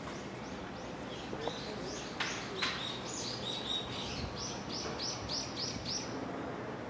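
A small songbird giving a run of short, high chirps that come faster toward the end, over steady background noise.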